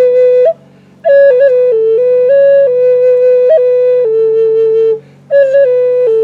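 Native American flute playing a slow melody of long held notes, with short breath pauses about half a second in and about five seconds in.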